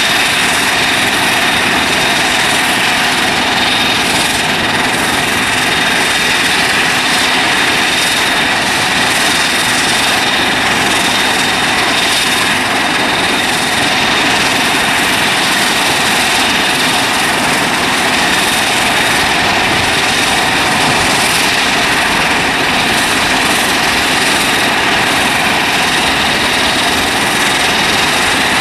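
Jet airliner engines running steadily, a constant rushing noise with a high whine held on one pitch throughout.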